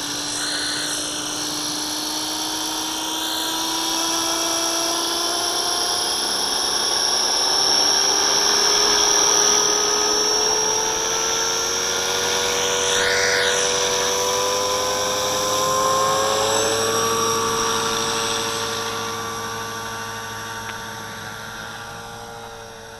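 Walkera V450D01 electric RC helicopter's motor and rotors running with a steady whine. The pitch climbs slowly as the head spools up over the first three-quarters, then holds steady.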